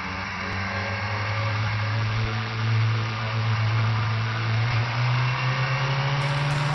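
Motorcycle engine running under steady throttle, its pitch slowly climbing, with wind rush over it.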